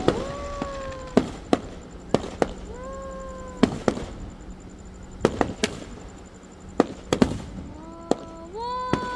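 Aerial fireworks shells bursting: a string of about fifteen sharp bangs, irregularly spaced and some in quick pairs, with several drawn-out pitched tones sounding between them.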